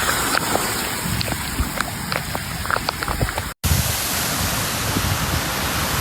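Rain falling, with many separate drops ticking over a steady hiss. It breaks off abruptly about three and a half seconds in and gives way to a denser, steady rushing noise of heavy rain.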